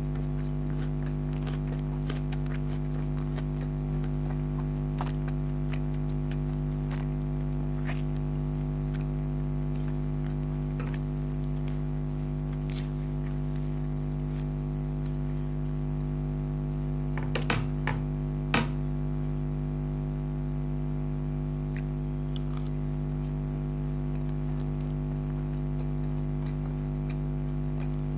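Scattered soft clicks and mouth sounds of someone chewing food, over a steady low hum, with a short cluster of louder clicks about two-thirds of the way through.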